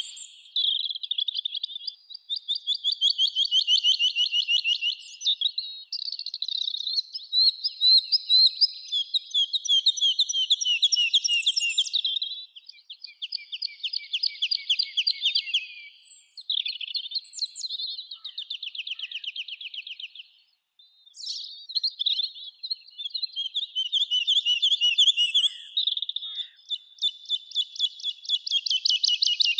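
Songbirds singing: long phrases of rapid, high trilled notes follow one another with only short breaks, sometimes overlapping.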